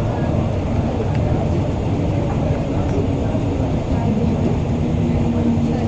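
Airport shuttle train running, a steady rumble heard from aboard the car, with faint passenger voices over it.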